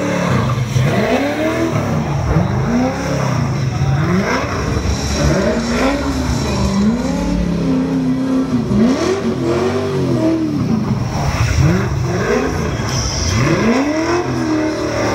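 Nissan Silvia S15's 6.3-litre LS3 Chevy V8 drifting on a wet road, its revs rising and falling over and over, about once a second, as the throttle is worked through the slides.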